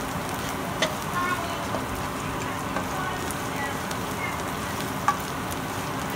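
Sliced vegetables sizzling in oil in a nonstick wok while being stirred with a spatula, with two sharp taps of the spatula on the pan.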